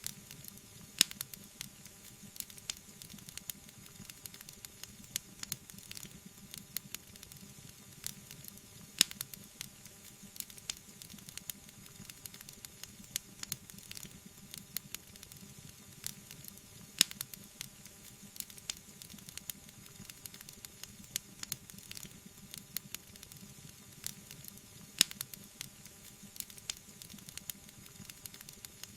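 Wood fire burning, crackling steadily with frequent small pops and a few sharper, louder snaps over a soft hiss.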